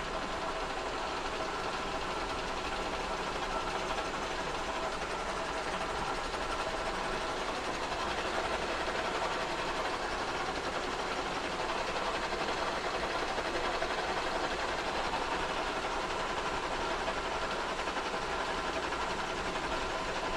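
Kearney & Trecker 2HL horizontal milling machine running steadily, taking a 0.025-inch pass across a cast iron straight edge.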